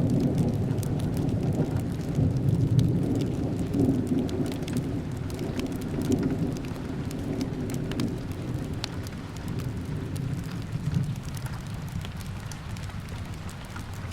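Steady rain with a low rolling rumble of thunder that swells a few times and dies away toward the end, and scattered sharp crackles from a fireplace.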